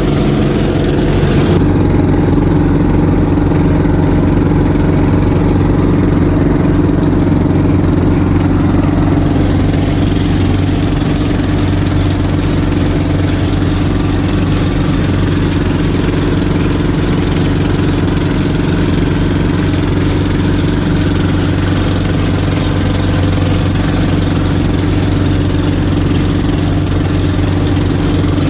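Small fishing boat's engine running steadily and very noisily.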